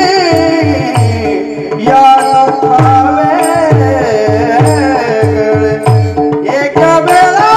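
Devotional bhajan music: a male voice sings wavering, ornamented lines over steady held accompanying notes. A hand drum keeps a regular rhythm of deep strokes that slide down in pitch. The melody drops out briefly about one and a half seconds in, then comes back.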